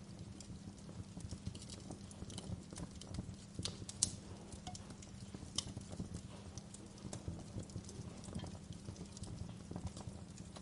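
Wood fire burning in a fireplace: a steady low rumble of the flames with irregular crackles and sharp pops, the loudest pop about four seconds in.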